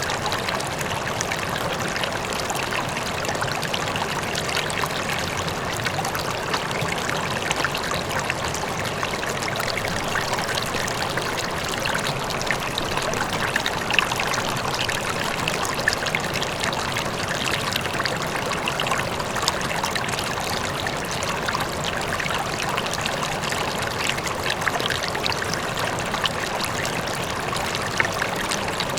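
A river flowing, a steady rush of water with many small splashes and trickles running through it.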